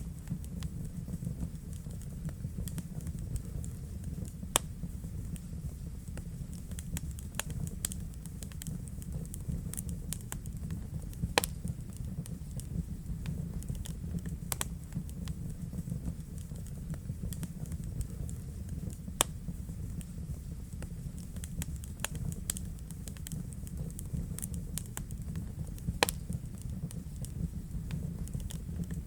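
Fire crackling in a fireplace: a steady low rumble with frequent small pops and a few sharper snaps.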